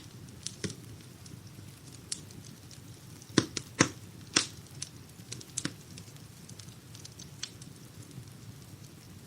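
Wood fire crackling in a fireplace: irregular sharp pops and snaps over the low, steady rumble of the burning logs, with a cluster of the loudest pops between about three and four and a half seconds in.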